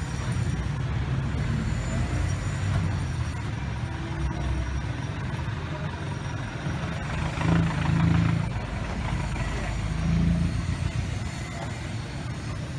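Motor vehicle engines running nearby, a steady low rumble that swells louder twice as vehicles pass, about halfway through and again near ten seconds in.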